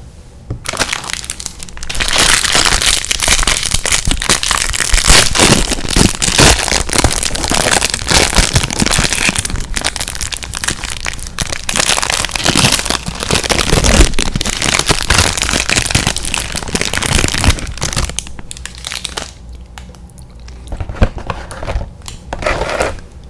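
Plastic candy packaging crinkling and crackling close to the microphone, loud and dense for most of the time, then quieter with scattered sharp crackles near the end.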